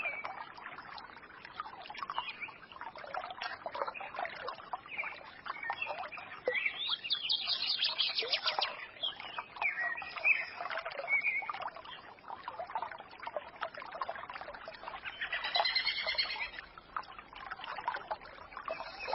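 Small forest stream babbling and trickling steadily, with songbirds chirping over it; a fast high trill about seven seconds in and a quick run of chirps near the end.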